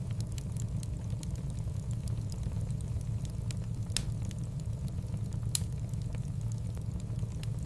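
Wood fire burning in a fireplace: a steady low rumble with scattered crackles, and two louder pops about four and five and a half seconds in.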